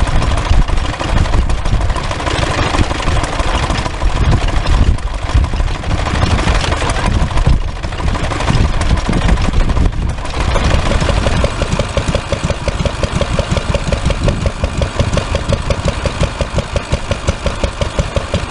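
Vintage stationary engines running. About ten seconds in, the sound changes to a single engine's steady, even beat.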